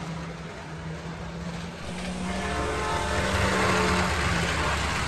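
Trains running: a steady rushing rumble over a low hum. About two seconds in, a held chord of several steady tones joins it and fades near the end.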